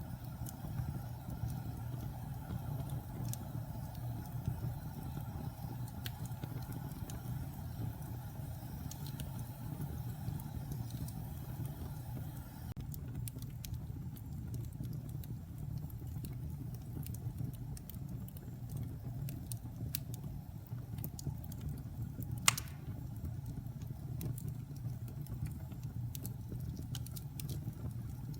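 Wood fire burning in a fireplace: a steady low rumble of flames with scattered crackles, and one sharp, loud pop a little over three-quarters of the way through.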